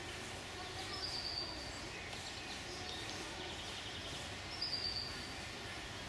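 Woodland ambience with a bird giving a short, high, slightly falling call twice: about a second in and again past four seconds.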